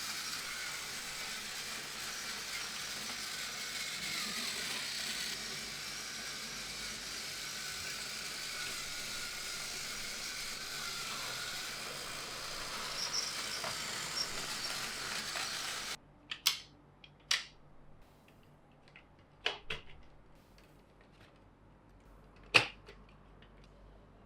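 A Plarail toy train's small battery motor running with a steady whirr. It cuts off abruptly about two-thirds of the way through, and a quiet stretch of sharp clicks and knocks of plastic toy pieces follows.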